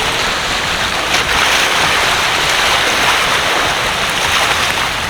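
Steady rush of water noise: rain falling, with waves washing at the shore.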